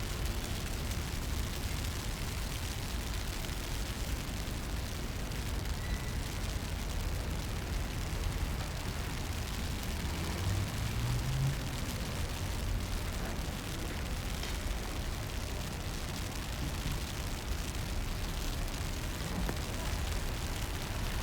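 Steady rainy city-street ambience: an even hiss with a heavy low rumble. A short rising low tone sounds about halfway through.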